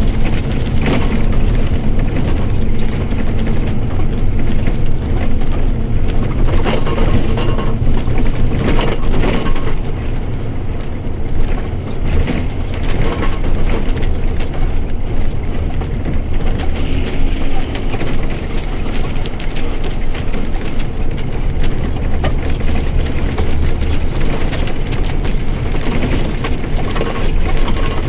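Mercedes-Benz OF-1722M bus driving along: a steady low drone from the engine and drivetrain, with the differential part of what is heard, under frequent rattles and knocks.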